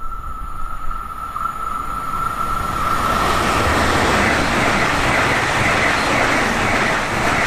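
A Deutsche Bahn ICE high-speed electric train approaching and passing at speed. A steady high tone sounds over a low rumble as it approaches, then a loud, steady rush of wheels and air takes over about three seconds in as the train runs past.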